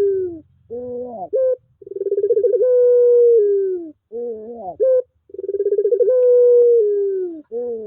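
Puter pelung dove (a domestic collared-dove breed) calling repeatedly, with a call about every three and a half seconds. Each call is a long drawn coo that starts as a rapid stutter, settles into a held tone and drops at the end, then a short broken phrase that leaps up and falls back. This is the type of call played to prompt a dove that has stopped calling.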